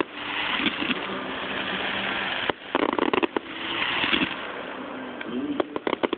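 Fireworks display: a dense hissing crackle of fountains and crackling stars, broken by a quick run of sharp pops and bangs about two and a half seconds in and another near the end.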